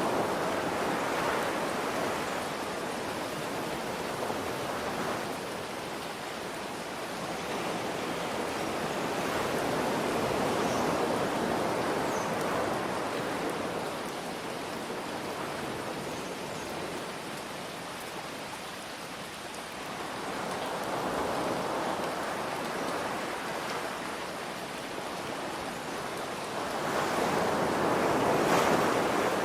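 Steady rain hiss over ocean waves washing in, the sound swelling and easing in slow surges about every 8 to 10 seconds, the biggest wave near the end.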